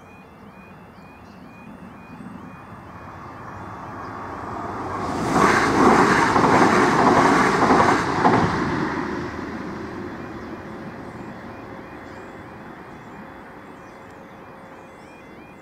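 A Southern Class 377 electric multiple unit passes over the level crossing. Its rush of wheel and track noise builds over a few seconds, is loudest for about three seconds in the middle, then fades away. The crossing's electronic warning alarm sounds throughout with a rapidly repeating tone.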